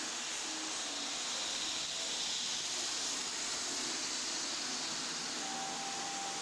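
A 00 gauge model locomotive (a small shunter) running fast along the track: a steady hissing whirr of its motor and wheels that swells slightly in the middle, with a brief faint tone near the end.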